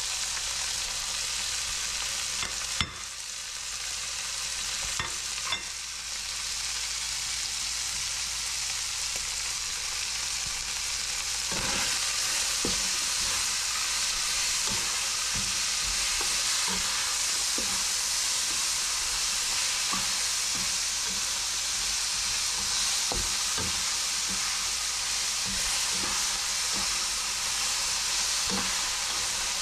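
Diced onions, tomatoes, garlic and seasonings sizzling steadily in a large hot pan. There is a sharp knock about three seconds in. From about twelve seconds in, a spoon scrapes and taps against the pan as the vegetables are stirred.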